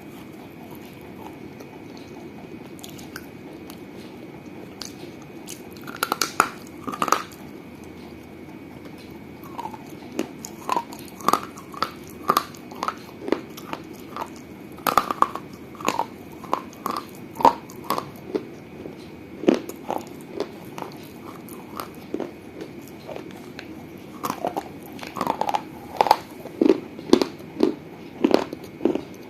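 Person biting and chewing pieces of a small baked-clay piggy bank, giving sharp, brittle crunches in irregular bursts. The crunching starts about six seconds in and pauses for a few seconds near the middle.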